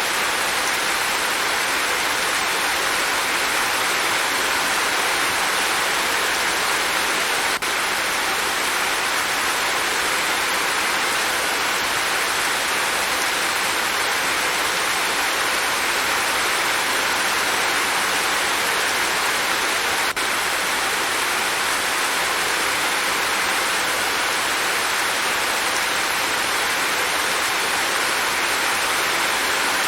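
Heavy rain falling in a steady, dense hiss with no let-up, broken only by two momentary dropouts about 8 and 20 seconds in.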